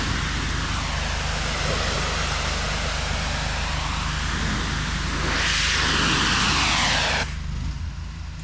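Pressure washer spraying water at high pressure, a loud steady hiss over the low hum of the machine's engine. The spray gets a little louder about five and a half seconds in, then stops suddenly about seven seconds in, leaving the engine running.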